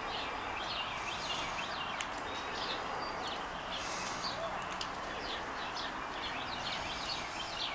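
Small birds chirping over and over, short quick notes, over a steady background of noise.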